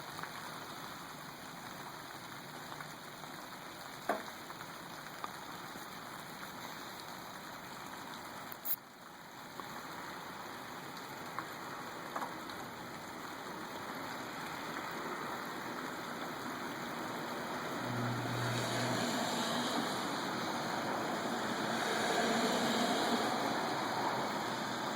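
Steady hiss of light rain and dripping water, with a few faint ticks.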